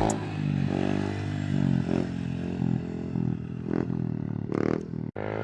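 Dirt bike engine running with a few short rises in revs. The sound cuts out abruptly near the end.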